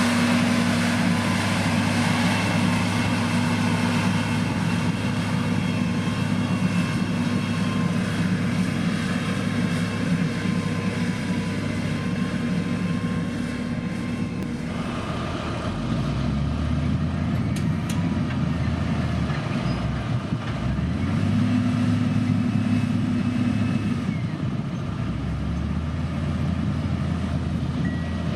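Motor grader's diesel engine running steadily while working; its engine note shifts lower about halfway through and then rises and falls a little.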